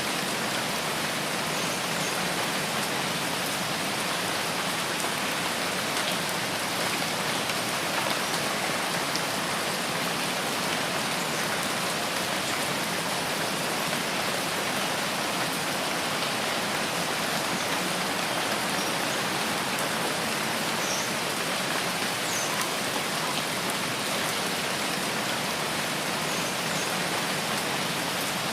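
Steady rain falling in a forest: an even, unbroken hiss of many drops pattering on leaves and ground.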